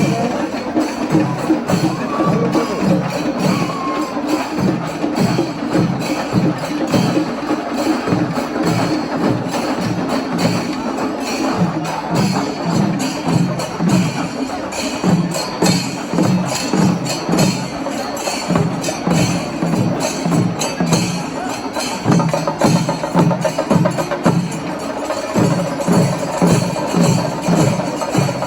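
Kerala temple festival percussion ensemble playing: rapid, evenly driven drum strokes with cymbals shimmering over them. A held high note joins near the end.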